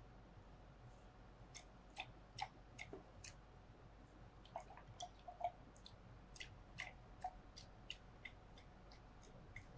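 Faint, irregular clinks of glassware while magnesium sulfate crystals are being dissolved in water in a glass test tube: a couple of dozen small sharp clicks, each ringing briefly.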